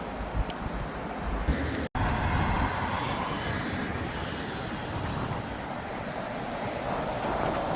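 Road vehicle noise: engines running and traffic, cut off abruptly for an instant about two seconds in, then continuing steadily.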